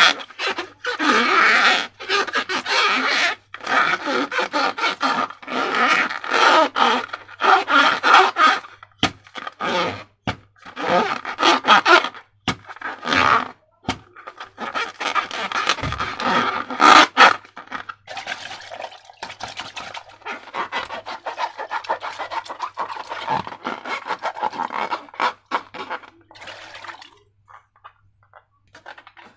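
Slime and rubber balloons being handled and worked: irregular rubbing, scraping and squishing, with many sharp clicks, thinning out near the end.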